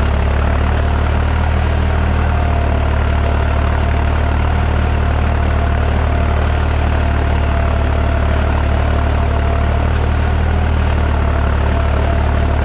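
Deutz 55F tractor's diesel engine running steadily while pulling a cultivator, a deep even drone with a thin steady whine above it.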